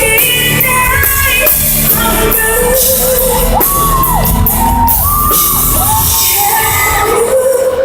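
Live concert music in a large arena: a singer holds long wordless sung notes over the band's accompaniment, with the crowd shouting and whooping.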